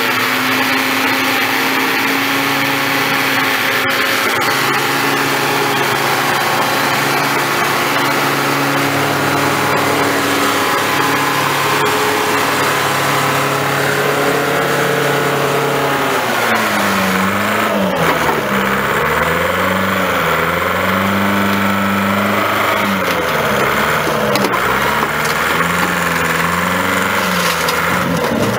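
Heavy equipment engine running steadily, then from about 16 s in repeatedly bogging down and revving back up, as when working under hydraulic load.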